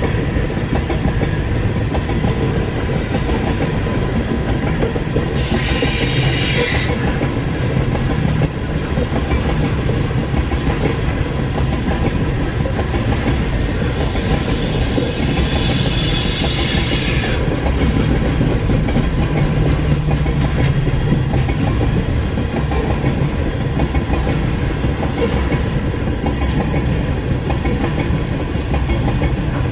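Covered hopper cars of a Union Pacific freight train rolling steadily past at close range, a continuous rumble and clatter of wheels on rail. Twice, about six and sixteen seconds in, a high-pitched wheel squeal rises over it, once for about a second and once for about two seconds.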